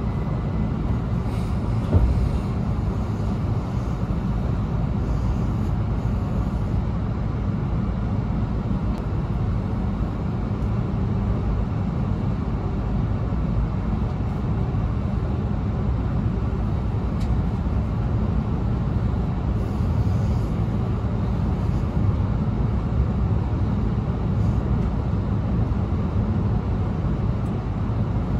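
Cabin running noise of an E2-series Shinkansen car as it moves off and gathers speed: a steady low rumble, with one short knock about two seconds in.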